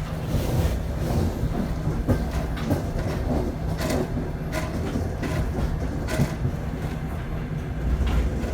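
Passenger train rolling on the rails: a steady low rumble with irregular sharp clacks of the wheels over rail joints.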